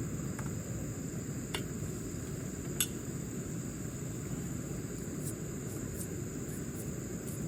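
Insects chirring in one steady high band over a steady low rushing background, with a few sharp ticks, the clearest about one and a half and three seconds in.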